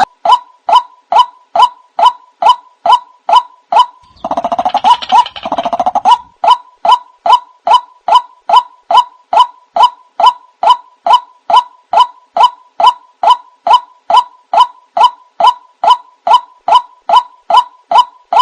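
White-breasted waterhen (ruak-ruak) calls played as a bird-trapping lure: one short, loud, downward-sliding note repeated about twice a second. About four seconds in, the notes give way for two seconds to a rougher, faster run of calling.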